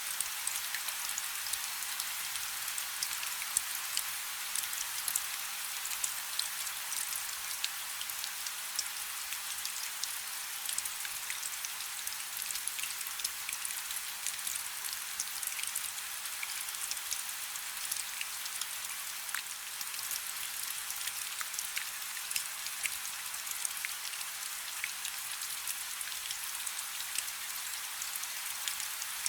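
Light rain falling steadily: an even high hiss with many small, scattered drop ticks.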